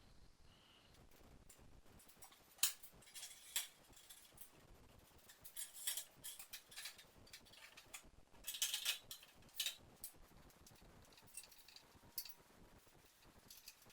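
Irregular light clinks and taps of small hard objects being handled, with the busiest cluster about two thirds of the way through.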